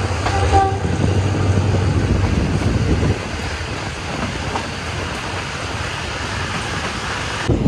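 Train running: a steady rushing noise over a low rumble, the rumble easing about three seconds in.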